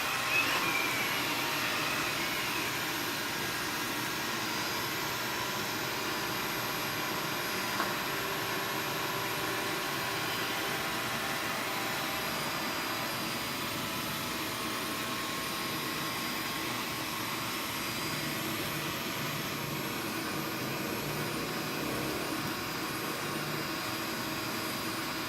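Xiaomi Mi Robot Vacuum running steadily as it cleans: an even whir from its suction fan, with a few steady high tones on top.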